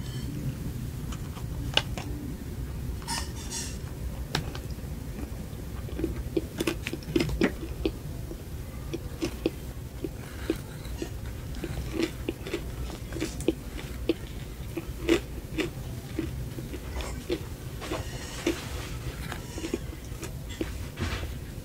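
Close-miked biting and chewing of a frosted, cereal-topped cupcake: soft crunches and wet mouth clicks in a steady chewing rhythm of about two a second, with a few sharper crunches, over a low steady hum.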